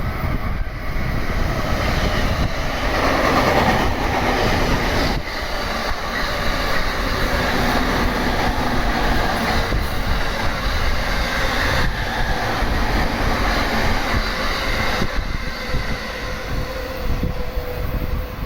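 Electric passenger train passing through the station, a continuous loud rush of wheel and rail noise.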